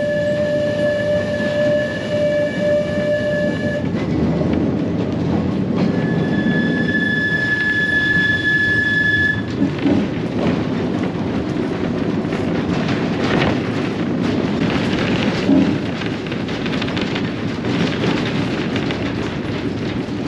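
Manx Electric Railway tram running on its track: a steady rumble with clacking over the rails, and two long high steady whines in the first half, each lasting about four seconds.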